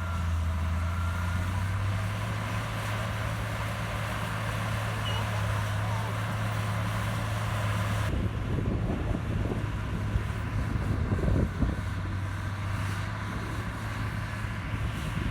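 Heavy diesel earthmoving machinery running steadily with a deep engine hum. About halfway through, irregular metallic clattering and knocking joins in for a few seconds.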